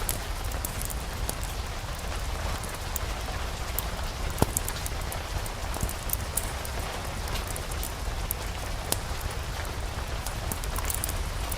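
Steady rain mixed with a crackling fireplace fire: a constant hiss with sharp pops scattered through it, the loudest about four and a half seconds in and again near nine seconds.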